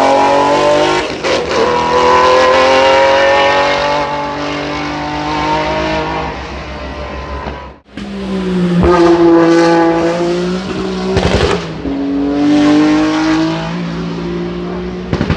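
Racing car engines revving hard under acceleration, pitch climbing between gear changes. About halfway through the sound cuts off abruptly and a second engine run starts, rising and falling, with a sharp crackle near the middle of it.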